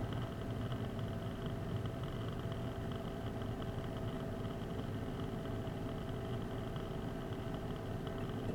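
A car running steadily, with a low engine rumble and an even hum that neither rises nor falls.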